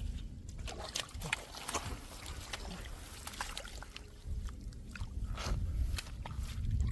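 Sloshing and splashing in shallow muddy water, with a quick run of short splashes in the first half over a steady low rumble.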